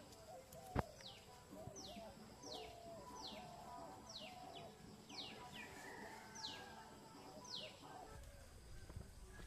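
A bird calling over and over: a quick high note sweeping downward, about every three-quarters of a second, with lower wavering calls beneath; the calls stop about a second before the end. One sharp click about a second in.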